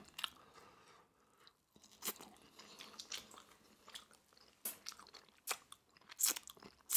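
Close-miked eating: chewing with the mouth open, scattered wet mouth clicks and smacks, growing more frequent in the second half, with sauce licked off the fingers near the end.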